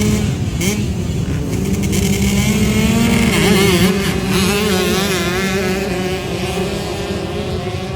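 Dirt bike engines running and revving, the pitch rising and falling as the throttle is worked, loudest about three and a half seconds in.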